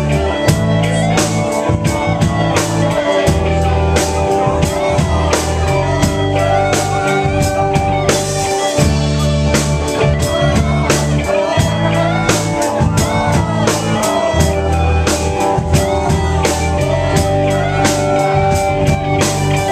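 Live rock band playing an instrumental passage: electric guitar, bass and drum kit, with regular drum hits and sustained bass notes.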